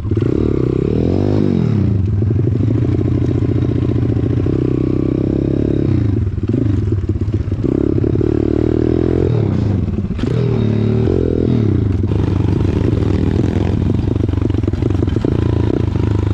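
Pit bike engine running hard while being ridden, its pitch rising and falling several times as the rider works the throttle and gears.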